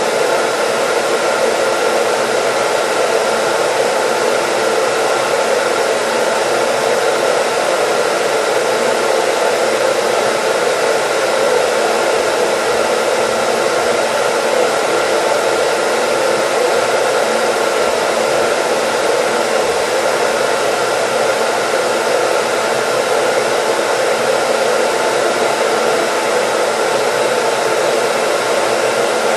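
Electric dryer running steadily: an even rush of blown air with faint steady motor tones under it, heard as continuous white noise.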